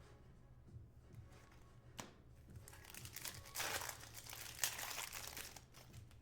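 Foil wrapper of a Topps Chrome Update baseball card pack being torn open and crinkled, with a sharp click about two seconds in and then about three seconds of dense crackling.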